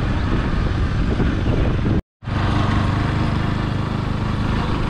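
Motorcycle engine running steadily while riding, with wind and road noise; the sound drops out for a moment about two seconds in.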